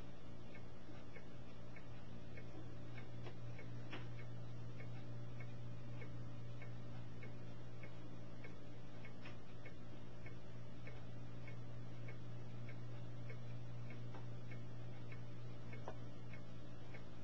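Regular faint ticking, about two to three ticks a second, over a steady low hum.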